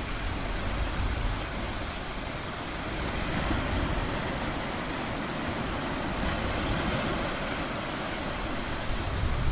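Ocean surf as a steady, even hiss, with a low rumble underneath that fades by about two seconds in and builds again near the end.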